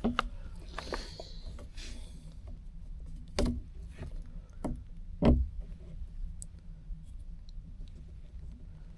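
Scattered knocks and clicks from handling plumbing pipe, fittings and tools, loudest about three and a half and five seconds in, over a steady low hum.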